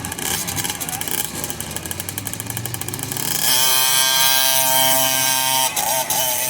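Small mini dirt bike engine running hard on a hillclimb run, rising about halfway through to a loud, steady high-revving note that wavers and dips briefly near the end.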